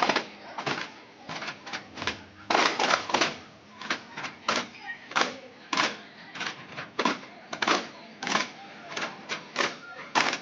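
Daffs, hand-beaten frame drums, struck in a brisk, uneven rhythm of sharp beats, some in quick clusters, as in a duff muttu.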